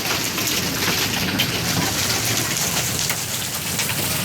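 Hailstorm: hailstones and heavy rain falling steadily, a dense, even patter of many small ticks as the hail hits the ground and nearby surfaces.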